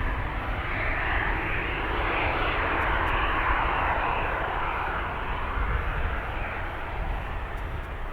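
Aircraft engines running steadily: a deep rumble under a broad hiss that slowly swells and eases.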